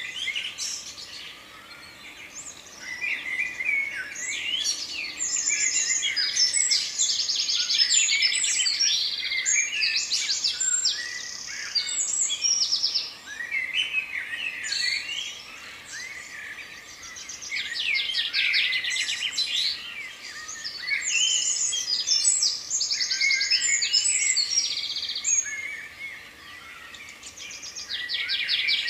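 Several songbirds singing and chirping together, with quick repeated trills and whistled notes in busy phrases broken by short lulls.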